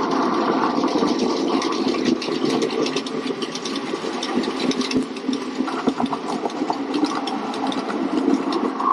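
A model locomotive running on the track: a steady motor and wheel noise with many small irregular clicks from the wheels over the rails.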